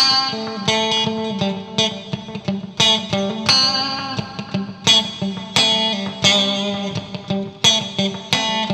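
Fender Strat Plus electric guitar played through a Fractal FX8 MK2 effects unit: a run of picked single notes and short phrases over a held low note, each note ringing out after a sharp attack.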